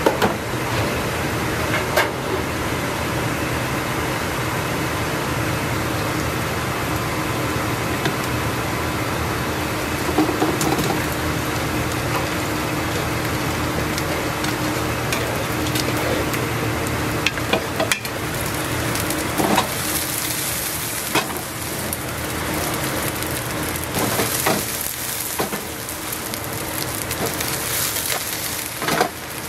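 Korean chive and seafood pancake (buchujeon) sizzling steadily as it fries in a pan on a gas burner, with a few clicks of a plastic spatula on the pan. The sizzle turns hissier about two-thirds of the way through.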